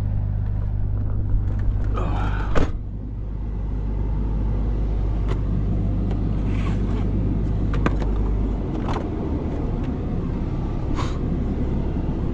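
Pickup truck engine idling with a steady low hum, with a single loud thump about two and a half seconds in. The engine note changes about eight and a half seconds in.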